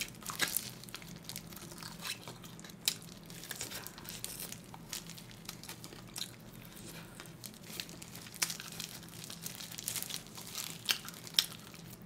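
Close-miked eating: chewing and gnawing meat off grilled pork ribs (jjok galbi), with irregular soft clicks and crinkles from disposable plastic gloves handling the ribs.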